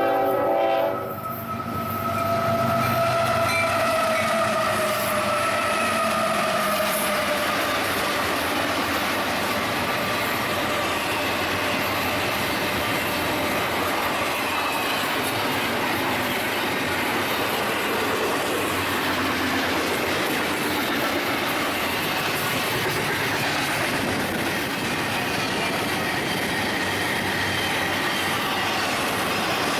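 A Union Pacific freight train rolling past, a steady loud rumble and clatter of cars on the rails. A high, steady squeal sags slowly in pitch over the first several seconds, then the rolling noise carries on evenly.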